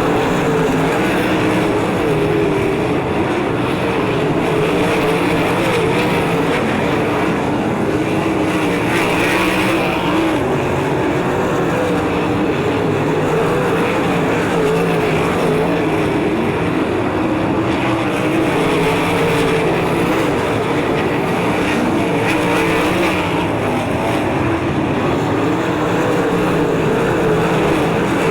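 A field of 360 sprint cars racing, their V8 engines running hard together, the pitch wavering up and down continuously as the cars circle the track.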